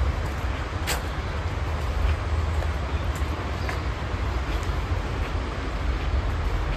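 Steady rain hiss over a low, unsteady rumble, with a few sharp ticks of drops, the loudest about a second in.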